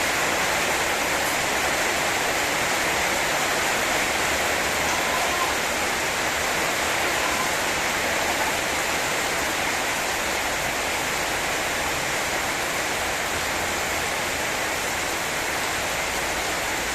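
Heavy rain pouring down steadily in a rainstorm: a dense, even hiss.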